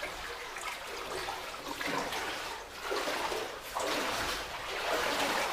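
Water sloshing and splashing in uneven surges, as people wade through flooded mine water in wellies.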